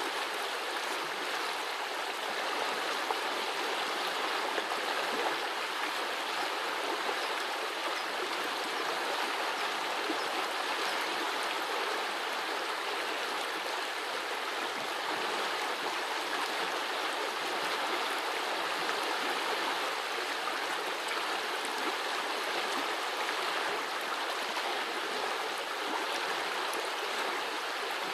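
Small forest brook babbling and trickling over its bed, a steady even rush of running water.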